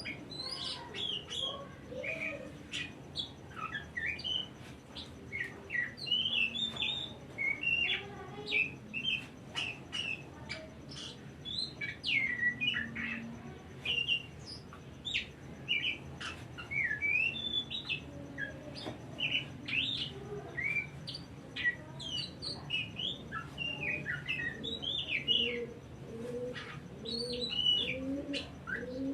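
Oriental magpie-robin (kacer) singing a continuous, rapid, varied song of chirps, whistles and sharp clicky notes. Repeated low notes join in over the last few seconds.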